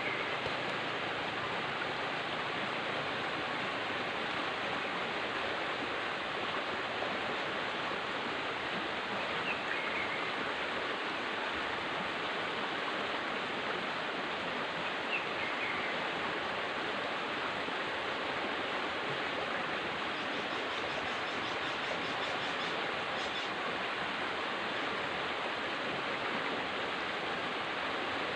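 River water flowing with a steady, even rush. Faint short high chirps come through twice.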